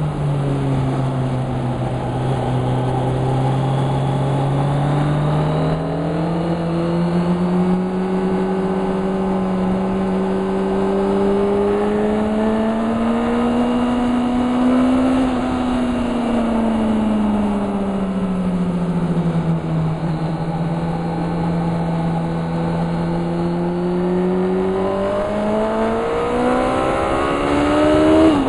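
Car engine at track speed heard from inside the cabin. Its pitch falls and swells slowly, then climbs steadily over the last few seconds as it accelerates hard.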